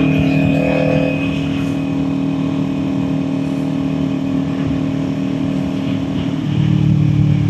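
Kawasaki Ninja 400 parallel-twin engine running at a steady cruising speed, with wind rush over the rider. The engine gets a little louder about six and a half seconds in.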